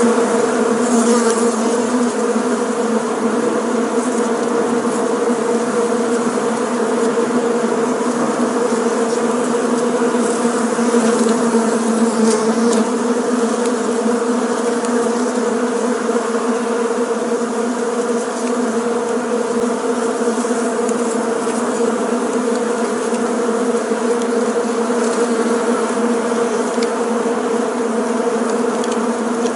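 Bees buzzing in a steady, continuous drone, many wingbeats blending into one even hum.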